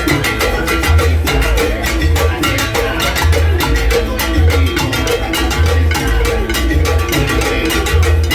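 Live salsa music: a dense pattern of percussion strokes over a bass line that pulses about once a second.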